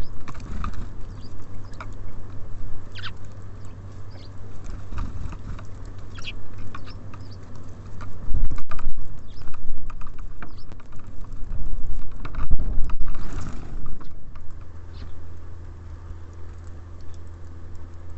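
Small birds feeding at a bird feeder close to the microphone: irregular pecking and scrabbling taps at the seed, with a few short, high chirps, over a low steady hum.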